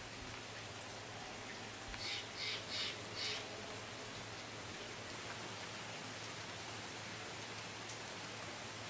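Steady rain falling, an even hiss of drops on the lake and trees. About two seconds in, four short harsh bird calls come in quick succession over the rain.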